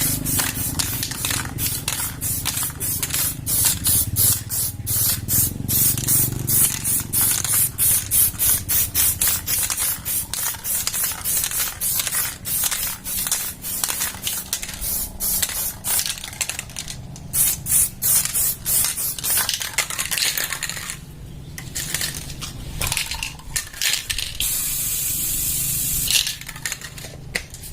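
Aerosol spray paint can of heat-resistant flat black paint, sprayed in many short bursts of about two a second, with a steadier spray of a second or two near the end.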